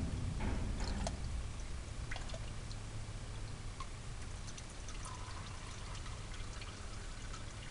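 Used engine oil pouring and trickling as it drains from the Subaru WRX STI's engine during an oil change. There are a few light clicks in the first couple of seconds.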